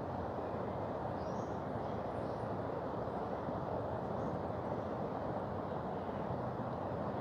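Mountain river rushing in a steady, even roar of water, with a few faint high chirps about one and two seconds in.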